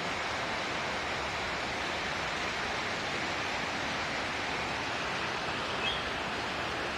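Steady rush of falling water, the shower of a rainwater bath, with one short high note about six seconds in.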